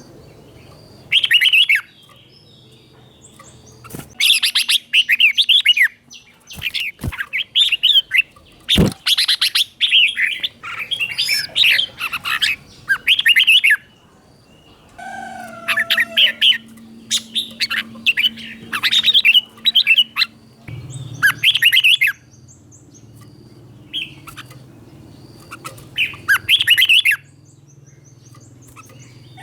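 Red-whiskered bulbul singing in bursts of quick, bright whistled phrases separated by short pauses, with a few sharp clicks about 4, 7 and 9 seconds in.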